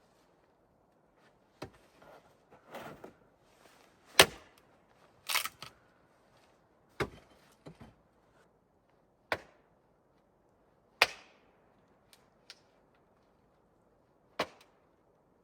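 A series of sharp, hard knocks, about seven, one every two seconds or so at an uneven pace, one of them a quick double strike.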